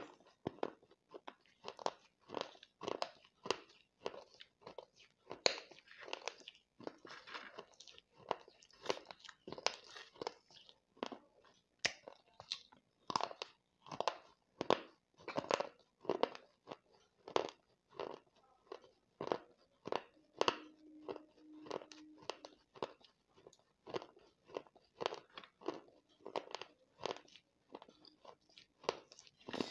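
Close-up crunching and chewing of broken pieces of baked clay pot in the mouth: a steady run of sharp, dry crunches, about one or two a second.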